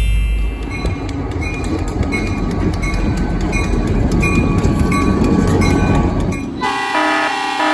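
A train rolling by with a steady rumble and regular clicking from the wheels. About six and a half seconds in, the locomotive's air horn sounds with a chord of steady tones.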